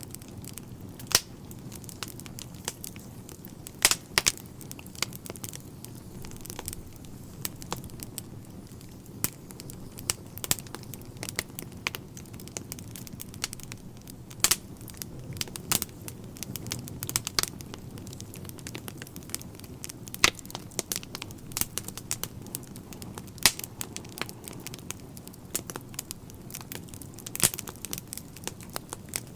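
Wood fire crackling in a fireplace: irregular sharp pops and snaps of burning logs, several a second, over a low steady rush of flame.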